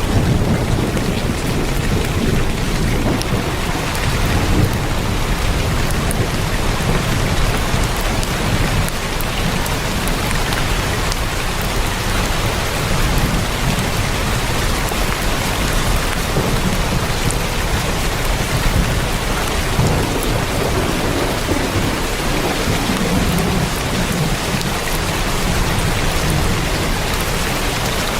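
Heavy rain falling steadily on a tin roof, a dense continuous patter with a deep low rumble underneath.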